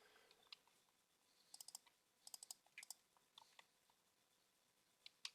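Faint, quick clicks in a few small clusters, with one sharper single click near the end.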